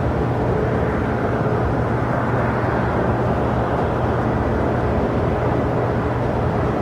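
Jet aircraft engines running, a steady even rumble with a low hum underneath.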